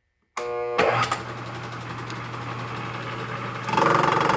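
Milling machine spindle motor starting, spinning up and running steadily with the end mill turning. A little under four seconds in, the sound grows louder and harsher as the cutter faces off the nub on the manifold.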